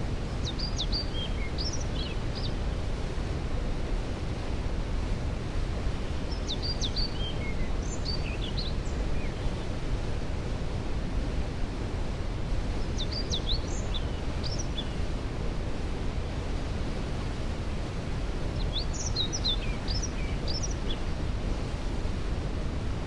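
Waterfall's steady low rush, with a songbird singing a short phrase of quick high notes four times, about every six seconds.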